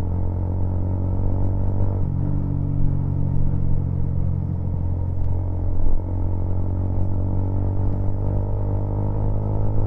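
Motor vehicle engine running while on the road, muffled, with the engine note shifting about two seconds in and a brief surge and drop near six seconds.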